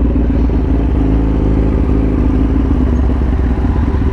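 Kawasaki ZX-10R's inline-four engine running steadily at low speed, with a slight shift in its note about a second in.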